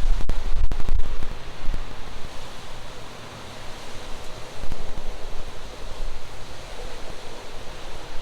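Tropical-storm wind gusting, buffeting the microphone with a heavy low rumble and a few knocks in the first second, then easing to a steady rush.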